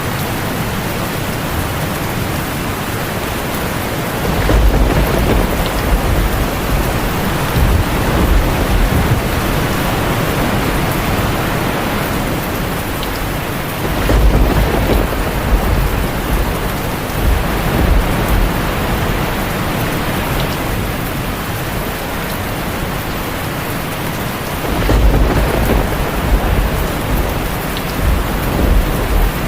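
Heavy rain falling steadily on a tin roof, with deep rolls of thunder rumbling three times: a few seconds in, near the middle, and near the end.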